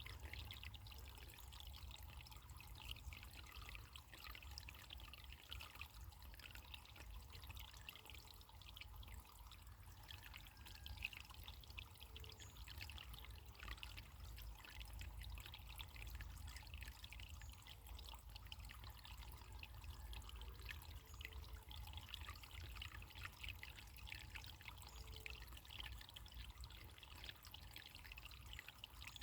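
Faint running water trickling steadily, like a small stream.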